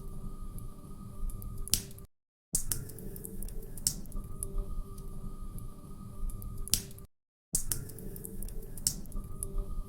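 Wood fire crackling in a fireplace: scattered sharp pops and snaps over a low steady rumble. The sound cuts out completely twice, for about half a second each time.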